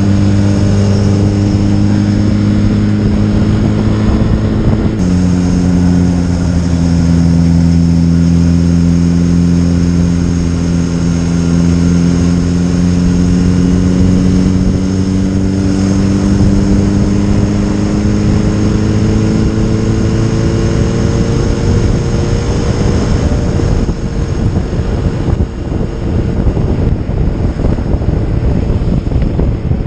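Motorcycle engine running under way, heard from on board: its steady note drops in pitch about five seconds in, then climbs slowly for some fifteen seconds as the bike picks up speed. Near the end, wind noise buffets the microphone.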